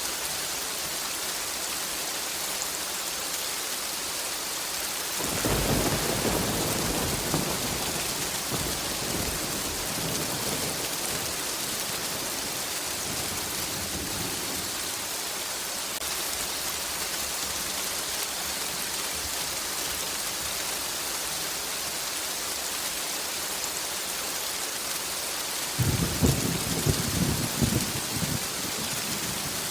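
Steady rain falling, with two rolls of thunder: one rumbling in about five seconds in and dying away over several seconds, and a louder, crackling one breaking in near the end.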